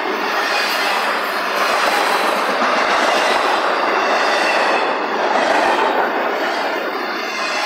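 Double-stack intermodal well cars of a freight train rolling past close by: the steady, loud noise of steel wheels running on the rails and the cars rattling.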